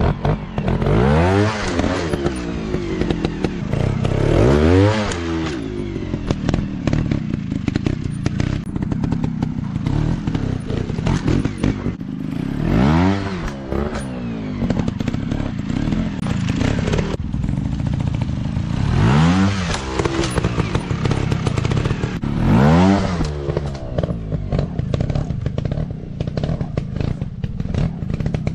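Off-road dirt bike engines revving hard and easing off again and again, about five big rising-and-falling rev swells, with clattering and knocks of the bikes working over rough ground.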